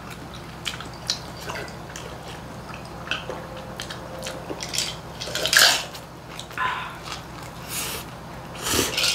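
Close-up eating and drinking sounds: water gulped from a glass and a mouthful of kimchi gimbap being chewed, a run of small wet clicks and swallows. Two louder noisy bursts come about five and a half seconds in and near the end.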